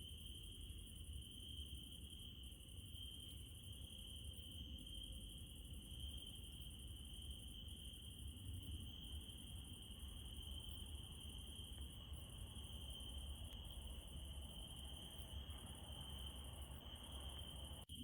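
Crickets and other night insects trilling steadily in one unbroken high tone, faint, over a low rumble. The sound drops out for a moment just before the end.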